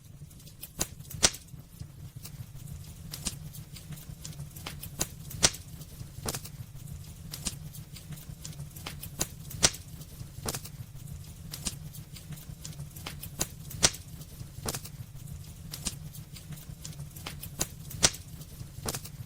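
Wood fire burning in a fireplace: irregular sharp crackles and pops, a few of them much louder, over a steady low rumble.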